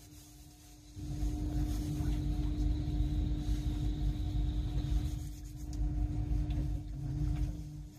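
Low running rumble of a Great Western Railway Class 800 train heard from inside the carriage over a steady hum. The rumble swells up loudly about a second in and eases off near the end.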